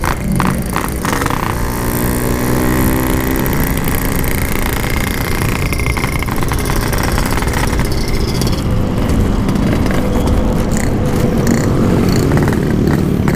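Yamaha RX-King 135 cc two-stroke single-cylinder motorcycle engine running while riding, with steady wind and road noise.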